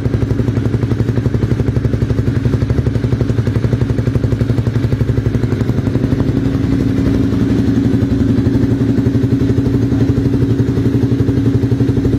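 Honda CBR250R's single-cylinder four-stroke engine idling through a Bizumo aftermarket exhaust, a steady, fast, even pulsing exhaust note.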